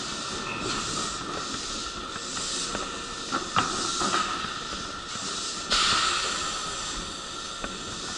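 Steady hiss with a faint high hum from a stopped electric commuter train standing at the platform. About six seconds in, a sudden louder burst of air hiss fades within about a second, with a few light knocks before it.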